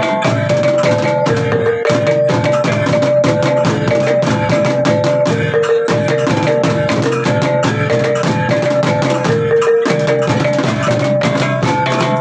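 Traditional percussion music: a rapid, steady beat of drum and wood-like strikes under held, ringing pitched notes that repeat in a cycle about every four seconds.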